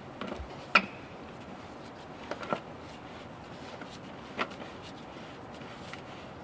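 A few light clicks and knocks of a truck's fuel filter parts being handled and lined up by hand, the sharpest about a second in, over a steady low background noise.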